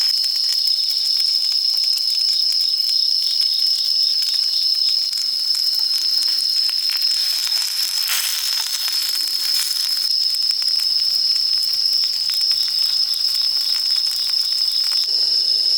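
Chicken breast sizzling and crackling in a frying pan, over a loud, steady high chirring of insects.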